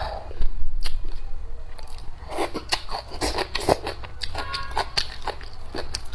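A person eating: biting and chewing food with crunching and a string of short sharp clicks, busiest in the second half.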